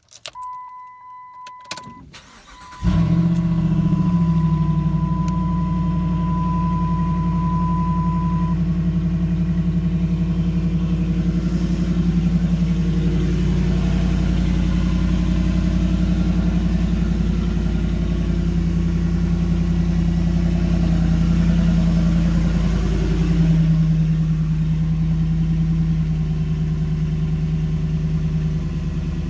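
A 2007 Dodge Ram 1500's engine is cranked and catches a few seconds in, then idles steadily. A steady high electronic tone sounds before the start and continues for a few seconds into the idle.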